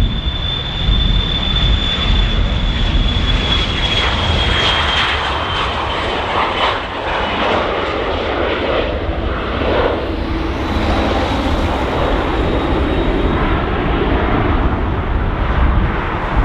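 Embraer Legacy 500 business jet's twin Honeywell HTF7500E turbofans at takeoff power, a high whine that dips slightly in pitch a few seconds in as it passes, over a steady roar and low rumble.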